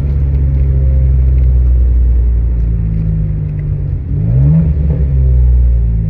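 Twin-turbo N54 inline-six of a 2007 BMW 335i with a muffler delete and catless downpipes, exhaust running loud under steady load. About four seconds in the engine note dips briefly and then climbs quickly, as at a gear change.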